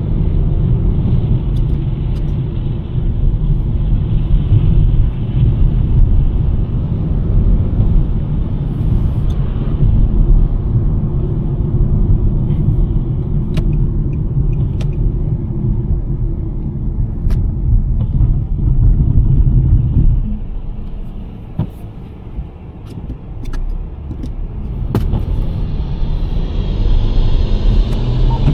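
2023 Nissan Sentra driving on a snowy road: a steady low rumble of tyre and road noise that drops away about twenty seconds in as the car slows, then builds again near the end as it picks up speed. Scattered faint ticks run through it.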